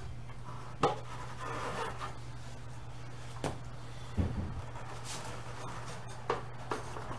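Handling noises from handlebar risers being fitted to a pit bike's triple clamp: about five light knocks and clicks with some rubbing between them, over a steady low hum.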